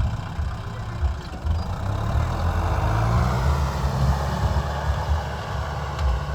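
Kubota M6040 tractor's diesel engine running steadily, growing a little louder about two seconds in.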